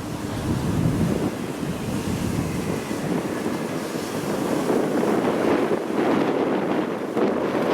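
Strong typhoon wind buffeting the microphone: a loud, rough, gusting rumble.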